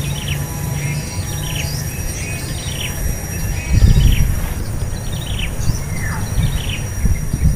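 Small bird chirps repeated about once a second, over a steady high insect drone. A low rumble is loudest about four seconds in.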